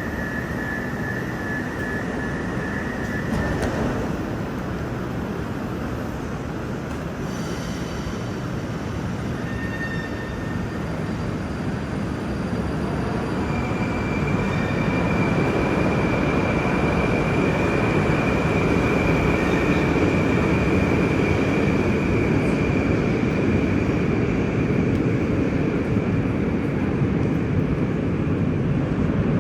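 Moscow Metro train running along the track with a steady rumble that grows louder about halfway through. A thin high whine holds steady for some twelve seconds in the middle, with a shorter one at the start.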